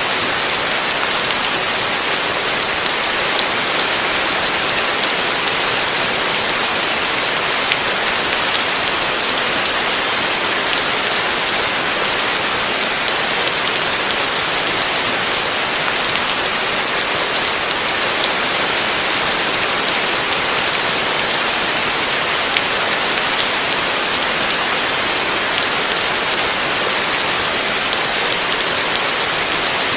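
Heavy rain falling steadily on a roof, a dense even hiss with scattered individual drop ticks.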